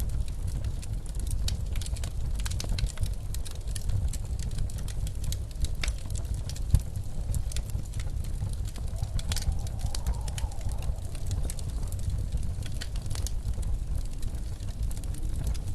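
Wood fire crackling in a fireplace, with irregular sharp pops and one louder pop about seven seconds in, over the steady low rumble of blizzard wind. A faint rising-and-falling howl of wind comes in about nine seconds in.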